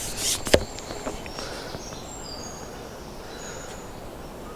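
A rhythmic rubbing stops with a sharp knock about half a second in. Small birds then chirp and whistle in short high notes over a quiet outdoor background.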